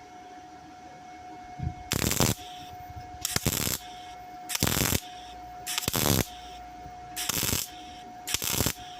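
Welder arcing in six short bursts of about half a second each, one every second or so, stitch-welding a steel repair panel on a car wing.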